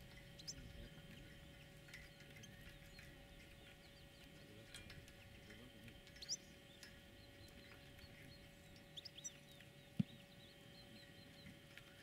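Faint, scattered chirps of small birds, short high notes coming every second or so, over a faint steady hum. A single sharp click sounds about ten seconds in.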